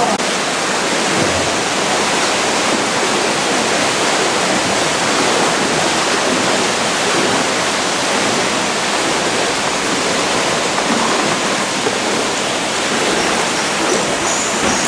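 Steady, loud rushing noise of flowing water, with no pitch or rhythm and no change in level.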